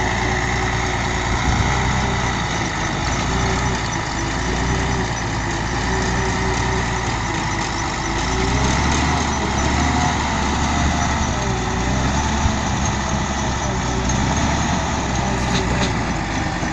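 Diesel engine of a Scania 112H 6x6 truck running steadily, its note wavering up and down in the middle, while it works to drag a trailer out of deep loose dust.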